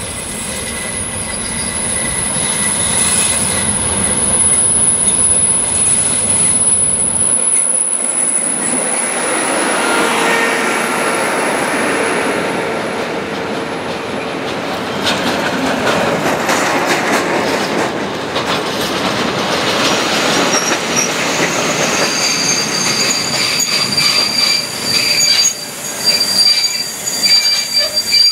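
A slow freight train passing close by: the S200 diesel locomotive's engine runs for the first several seconds, then the coaches and flat wagons roll past. Their wheels squeal steadily on the rails and, in the second half, click over the rail joints.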